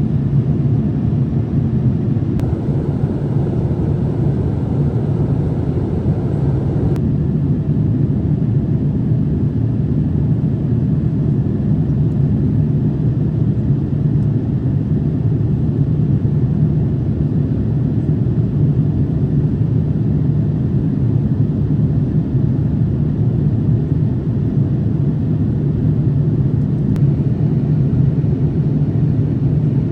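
Steady cabin rumble of a Boeing 787-8 in flight, heard from inside the economy cabin: engine and airflow noise with no change in pitch. A slightly brighter hiss layered over it drops away suddenly about seven seconds in.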